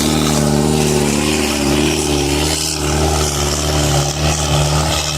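Diesel tractor engine running loud and steady under heavy load, hauling a loaded trolley in a tractor pulling contest.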